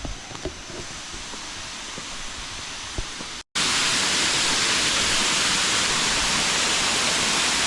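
Steady rushing of a waterfall, fainter at first with a few small clicks, then, after a sudden cut about three and a half seconds in, much louder and closer.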